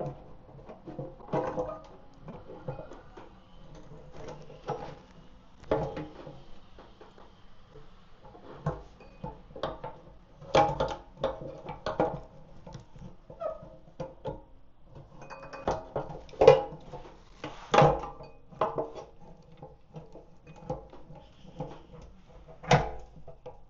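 Irregular knocks, clicks and clanks of hand work on a motorcycle fuel tank's fuel pump assembly as it is worked loose, some hits ringing briefly, the loudest about two thirds of the way through.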